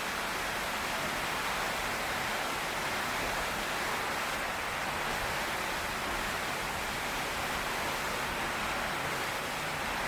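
Heavy rain pouring steadily on a tin roof, an even hiss with no thunder.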